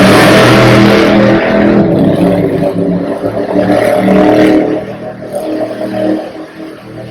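Monster truck engine revving loudly, its pitch stepping up and down, then easing off about five seconds in.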